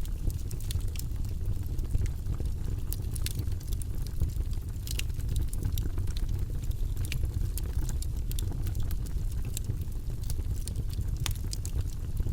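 Campfire burning with frequent sharp, irregular crackles and pops over a steady low rumble of the flames.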